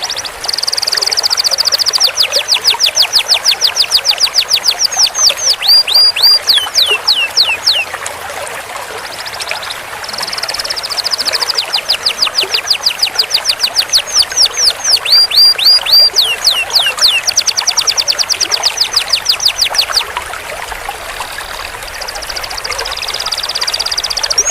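Domestic canary singing long rolling trills: fast runs of short, sharply falling notes repeated many times a second, in long phrases with brief pauses between, over a steady hiss.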